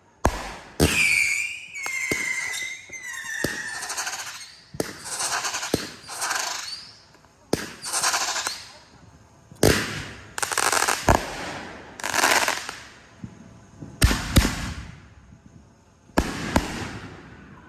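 Fireworks going off in quick succession: repeated sharp bangs, each followed by a crackling hiss. A whistle about a second in slowly falls in pitch over a couple of seconds.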